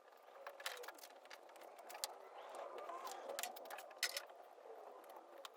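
A knife being pulled through old windshield sealant: faint scraping with scattered sharp clicks and a faint wavering squeak.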